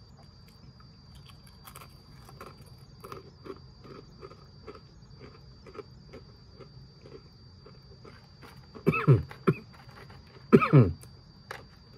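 A man chewing crunchy baked pretzel sticks, many small crisp crunches in a row. About nine and ten and a half seconds in come two short, loud vocal sounds that fall in pitch, like throat clearing.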